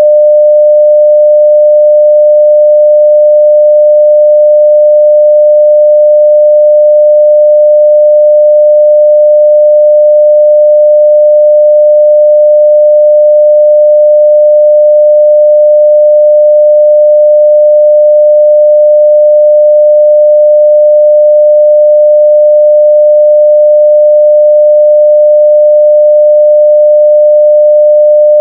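A steady 600 Hz sine-wave test tone at full level (0 dB), a single pure pitch held without change.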